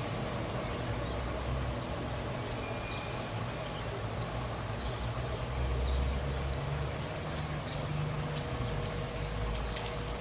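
Small birds chirping: short, high, rising chirps, about one a second, over a steady low background rumble.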